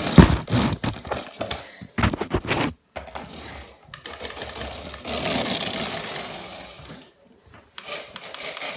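1:10 scale WRC rally RC car on a hard indoor floor: sharp knocks and clatter in the first few seconds, then its motor and tyres whirring as it drives. The whirring swells and fades, stops briefly near the end, then starts again.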